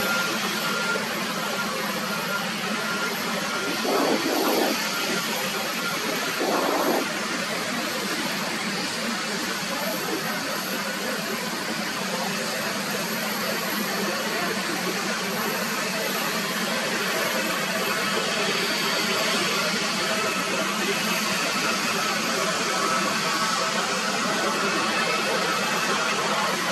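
Steady jet engine noise from an airliner, a continuous rushing sound that swells slowly toward the end, with two short louder sounds about four and seven seconds in.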